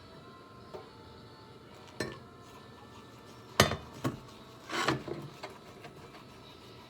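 Dishes and kitchen utensils being handled: several sharp clinks and knocks, the loudest about halfway through, with a short cluster a second later.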